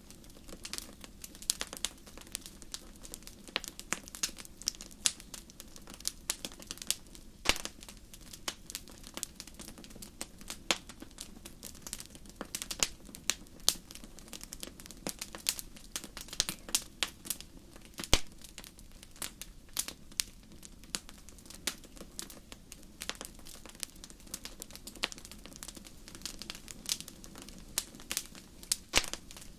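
Wood fire crackling: irregular sharp pops and snaps, several a second, over a low steady rumble of the burning fire.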